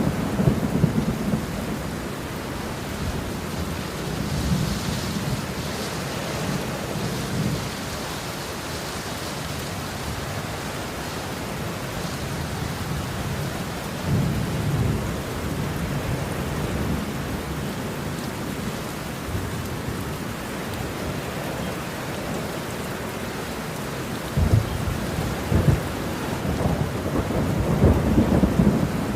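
Steady heavy rain with rolling thunder: low rumbles swell near the start, again about halfway through, and near the end, where a few sharper claps stand out.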